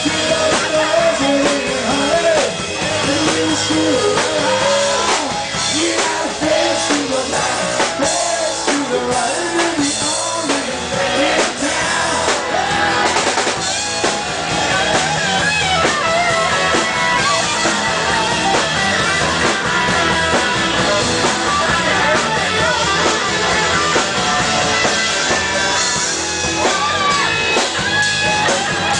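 A band playing a rock song: drum kit and guitar with a melodic lead line over them, between sung verses.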